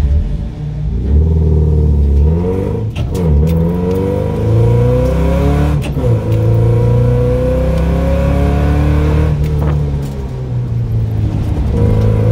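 Nissan 240SX's KA24DE inline-four engine heard from inside the cabin under hard driving, its pitch climbing and then dropping sharply about three and six seconds in, with a smaller dip near ten seconds before it revs up again.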